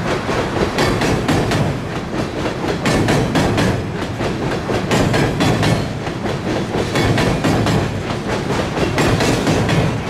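Empty coal hopper cars rolling across a steel girder bridge: a steady rumble and rattle with a quick, continuous run of wheel clacks over the rail joints.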